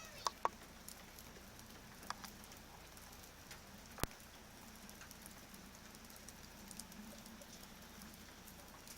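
Faint rain patter, a low steady hiss with scattered sharp taps, the loudest of them about four seconds in.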